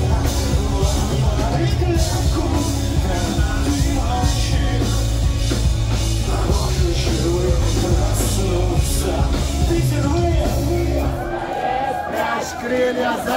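Pop-punk band playing live with drums, bass and guitars and singing over them. About eleven seconds in the band stops and the crowd shouts and cheers.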